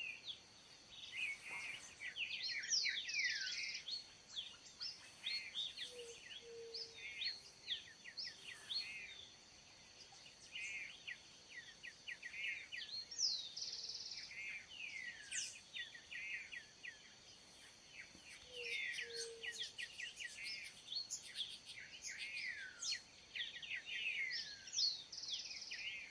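Several birds calling and singing at once, many quick downward-sweeping whistles and chattering notes repeating throughout, over a faint steady high-pitched hum.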